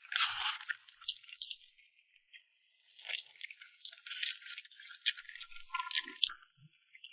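Close-miked crackling and scraping of a cream cake being scooped and eaten, with sharp little clicks in two runs and a short lull about two seconds in.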